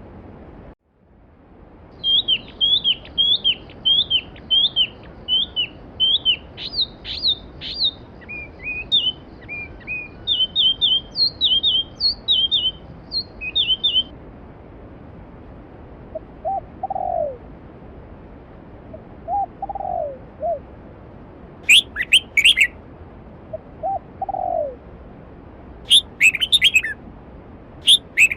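A stream's water runs steadily under birdsong. One bird sings a quick series of high, falling notes for about twelve seconds, a low two-note call comes three times, and sharp high calls sound near the end. The water sound cuts out briefly just under a second in.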